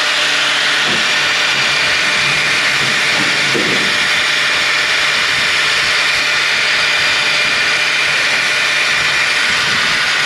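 Power saw running steadily as it cuts through the steel of an old car body's hinge mounting, a constant grinding noise with a thin high whine over it.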